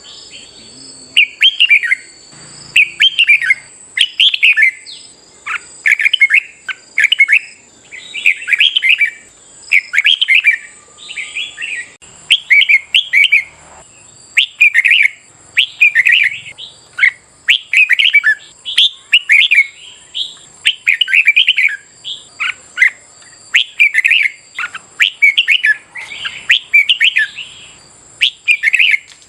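Red-whiskered bulbuls singing, a contest song of short warbled phrases repeated about once a second, with a faint steady high-pitched tone behind.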